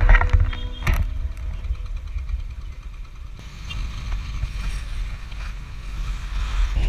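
Royal Enfield Classic 500 motorcycle on the move: a steady low rumble of the single-cylinder engine and wind on the microphone, with two sharp knocks in the first second.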